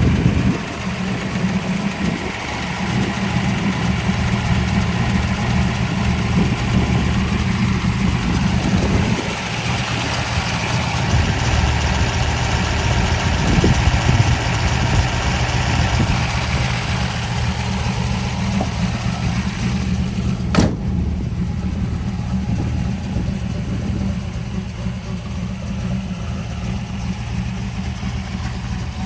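A 1967 Camaro Z28's 302 V8 idling steadily, with one sharp click about twenty seconds in.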